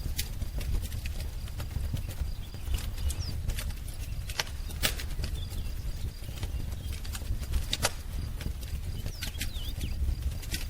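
Wood fire crackling, with frequent irregular sharp pops over a low steady rumble. A few faint short bird chirps come through, around a third of the way in and again near the end.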